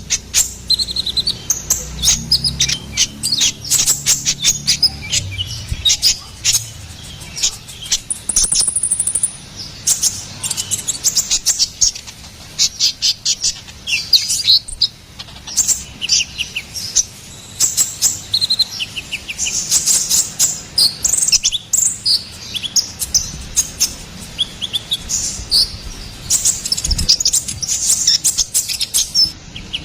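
Konin (kolibri ninja) sunbird singing continuously: a dense, rapid run of short, high chirps and twitters with hardly a pause.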